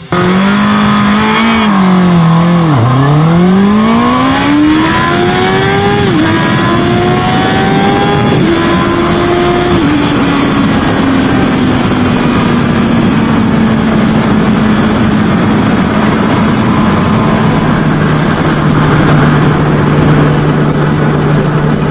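2020 Honda CB650R inline-four engine accelerating hard through the gears. The pitch climbs and drops sharply at about 6, 8.5 and 10 seconds as it shifts up, over loud wind rush. It then falls slowly as the bike rolls off, and settles to a steady low note near the end.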